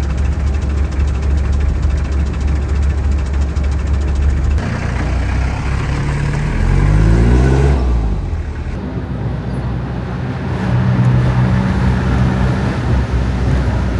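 Motor vehicle engine running. About six and a half seconds in it revs up in a rising glide, louder for a moment, then settles back to steady running.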